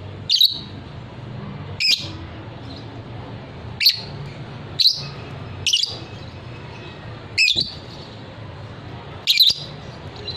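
Young fighter-type lovebird giving short, sharp, high chirps, seven of them at uneven gaps of about one to two seconds, over a steady low hum.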